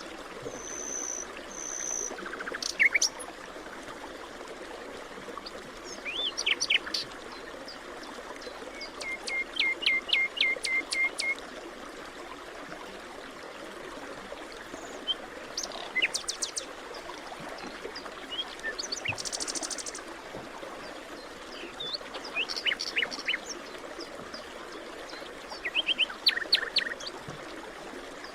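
Several wild birds calling and singing in a forest over a steady hiss. They give short chirps, two steady high whistles near the start, and a run of quick repeated notes about ten seconds in.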